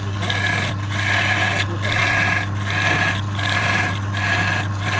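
Wood being worked against a running woodturning lathe: rasping strokes of tool or abrasive on the wood, a little more than one a second with short breaks between, over the lathe's steady hum.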